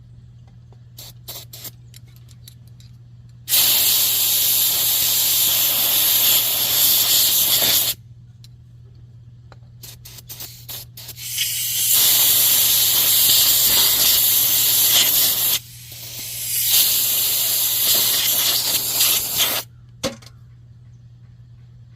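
Aerosol can of brake cleaner spraying in three long bursts of several seconds each, with a few clicks of handling before the first two.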